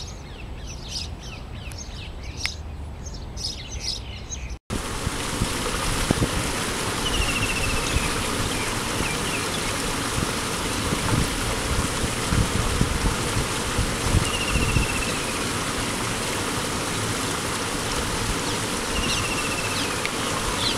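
Birds chirping in quick high calls for the first few seconds. After a sudden cut comes a louder, steady hiss of outdoor noise, with a short falling chirp three times.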